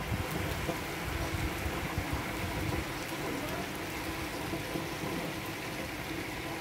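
Steady rain falling on pavement and roofs, an even hiss, over a low, uneven rumble that is heavier in the first three seconds.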